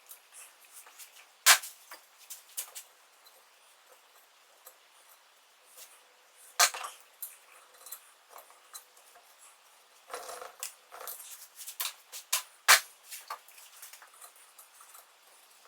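Scattered light metallic clinks and taps from hand work on metal parts, with three sharp knocks spaced about five seconds apart.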